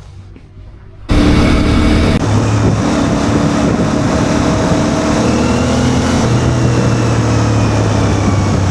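Quiet room tone for about a second, then an abrupt jump to loud riding sound: a CFMoto 450 MT's parallel-twin engine running steadily amid heavy road traffic.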